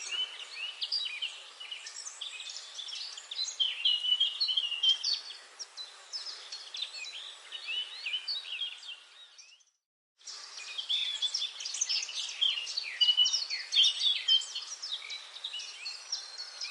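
Dense chorus of many small birds chirping and whistling in a forest, over a faint background hiss. The sound fades out to silence a little past halfway and starts again abruptly about half a second later, as at a loop join.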